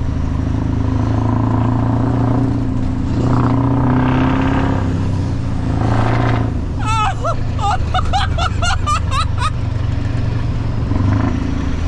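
Scania R500 V8 diesel with a straight-piped side exhaust, running loudly on the road with some rise and fall in engine speed. From about seven seconds in, a person's short wordless sounds ride over the engine for a couple of seconds.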